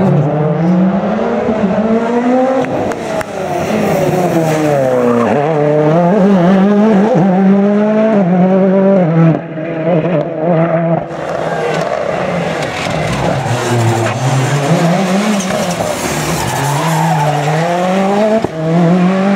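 Rally car engine revving hard, its pitch repeatedly climbing and falling with throttle and gear changes, while the tyres squeal and skid as the car slides through corners.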